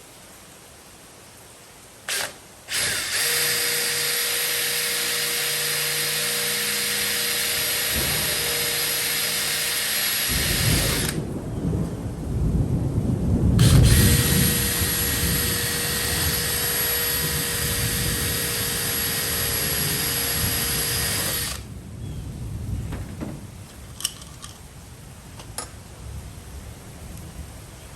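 A power drill working into wood: a short blip about two seconds in, then a steady run of nearly twenty seconds that grows heavier and labours for a few seconds in the middle before it stops. A few small knocks follow.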